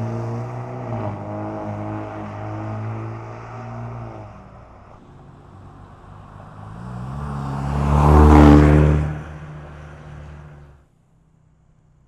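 Ford Bronco with an MRT King of the Hill dual-tip axle-back exhaust driving: its exhaust note fades over the first few seconds, then builds to a loud pass-by about eight seconds in and cuts off suddenly near the end.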